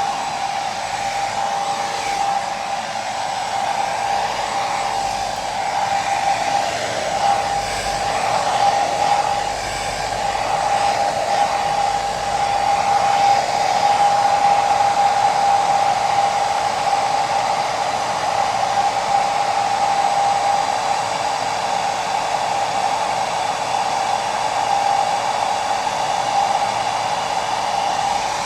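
Hair dryer running steadily: a continuous rush of blown air with a steady mid-pitched whine from its motor and fan.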